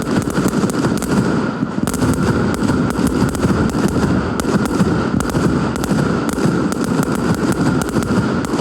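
Fireworks going off in rapid succession, with many overlapping bangs and crackles over a continuous rumble.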